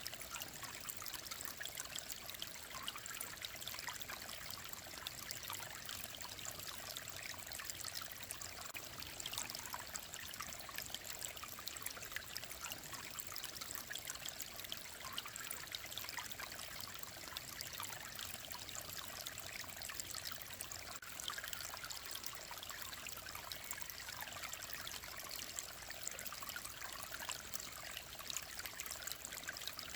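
Mountain stream flowing steadily, with an even rush of trickling, splashing water.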